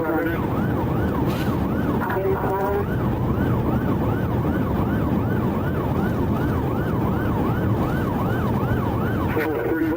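Police car siren on a fast yelp, its pitch sweeping up and down about three times a second, over steady engine and road noise from a vehicle in pursuit.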